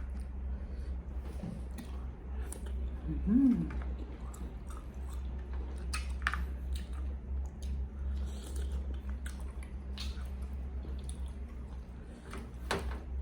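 A person chewing and eating with wet, smacking mouth sounds and small clicks, giving a short "mm" hum about three and a half seconds in. A steady low hum runs underneath.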